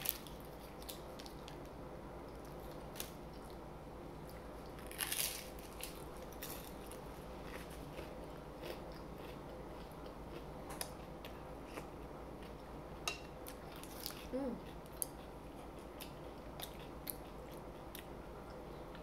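Close-up eating sounds: crunchy bites and chewing of a fried crab rangoon, heard as scattered short crisp clicks, with louder crunching bursts about five seconds in and again near the fourteen-second mark.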